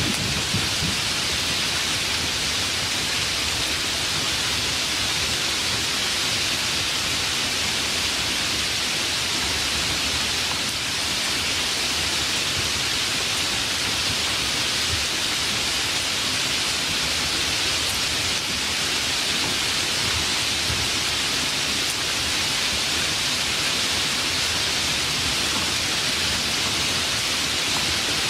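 Steady rain of a rainstorm, an even, unbroken hiss.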